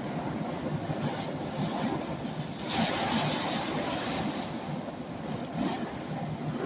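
Tropical-storm wind blowing steadily around a parked van, with a stronger gust about three seconds in.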